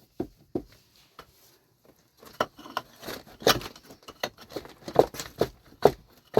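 Irregular sharp knocks and clatters of hard objects, sparse for the first two seconds and then coming every half second or so, the loudest strikes in the second half.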